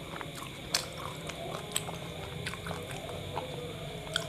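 Close-miked chewing of a mouthful of kebab wrap, with scattered short, sharp wet mouth clicks.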